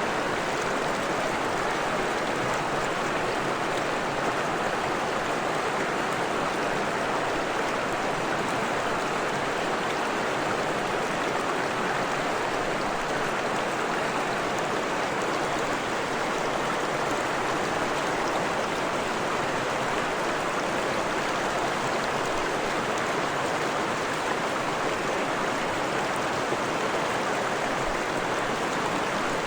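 Forest stream running over rocks: a steady, even rush of water.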